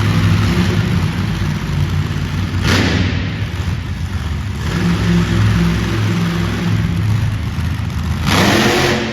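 Monster truck engine running and revving in an arena, its low pitch stepping up and down, with two short louder rushing bursts, one about a third of the way in and one near the end.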